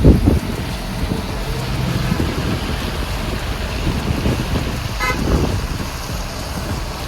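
Steady low rumble of a car on the road, with a loud low thump at the start and a short horn toot about five seconds in.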